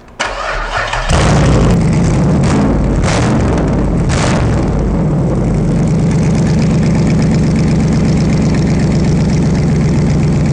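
Chevrolet 5.3 L LS4 V8 cranking briefly, then catching and running. It revs up three times before settling into a steady idle.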